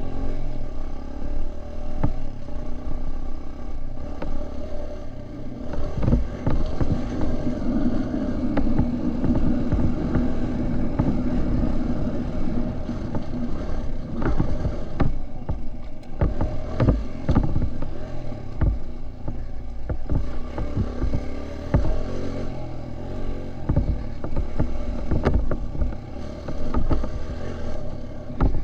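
Dirt bike engine running while being ridden, its note rising and easing with the throttle, with frequent knocks and clatters from the bike over rough ground.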